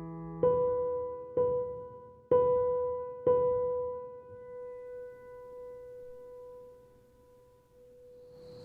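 Solo piano score: the same note struck four times about a second apart, the last left to ring and slowly fade away.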